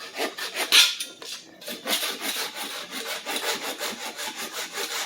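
Quick, rhythmic back-and-forth scraping on a wooden stick, about four or five strokes a second, as marker is worked off its top end.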